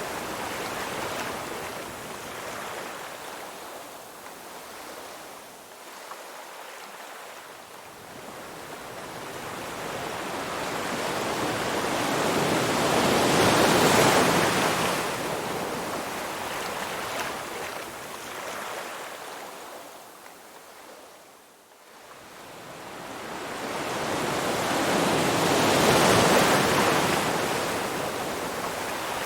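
Ocean surf: waves washing in and breaking, a rushing sound that swells slowly and fades, cresting twice about twelve seconds apart.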